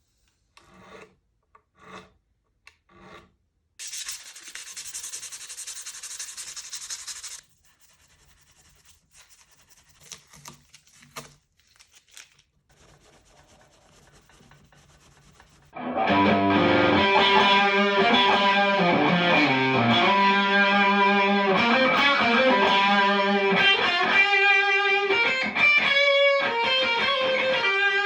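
A few light taps, then about four seconds of rasping sanding, the frets being levelled, then faint clicks. About halfway through, loud distorted electric guitar music starts and runs on.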